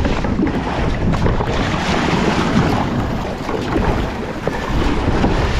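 Wind buffeting the microphone over water splashing and rushing past a moving kayak at sea, a steady loud rumble with no pause.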